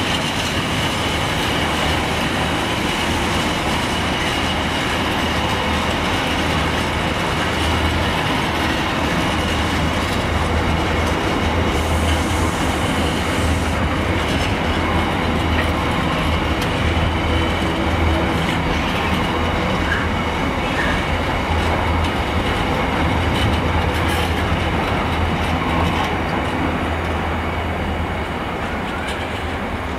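Container freight train's wagons running past on the rails: a loud, steady rumble with a thin steady high tone and a few scattered clicks, easing off slightly near the end as the last wagons go by.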